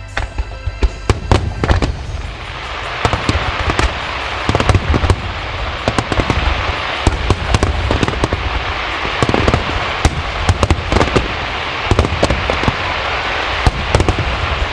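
Starmine fireworks: many shells bursting in quick succession, sharp bangs several times a second over a continuous rushing crackle that builds from about two seconds in. Accompanying music fades under it in the first second or so.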